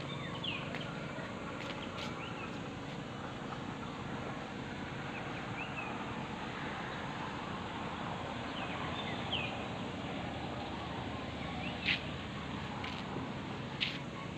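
Outdoor ambience: a steady background hiss with short bird chirps every few seconds, and two sharp clicks near the end.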